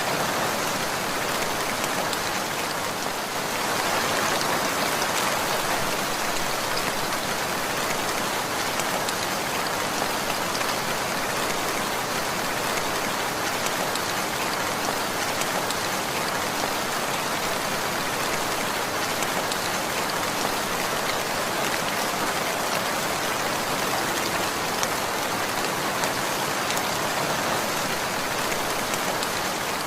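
Steady rainfall pattering on a surface, a dense even hiss of many fine drops.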